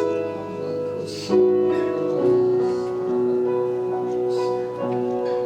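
Slow worship music on piano or keyboard: sustained chords that change every second or two, with a few soft single notes above.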